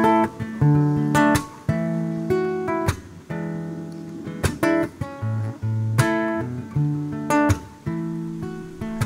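Acoustic guitar playing an instrumental intro: chords struck and picked in a repeating pattern, with a strong accented strum about every one and a half seconds.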